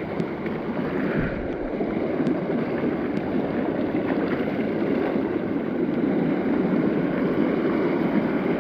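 Small mountain creek rushing and splashing over rocks, a steady water noise. A few faint clicks come in the first few seconds.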